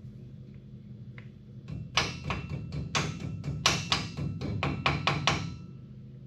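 A quick run of sharp metal clicks and taps, about four or five a second for some three and a half seconds, from hand tools working the spindle nut on a front wheel hub while the bearing preload is set. A steady low hum runs underneath.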